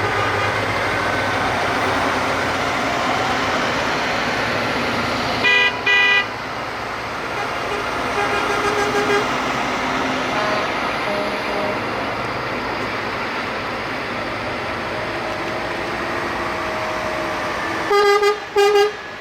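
Trucks driving past with engines running, and horns tooting: two short blasts about six seconds in and three quick blasts near the end.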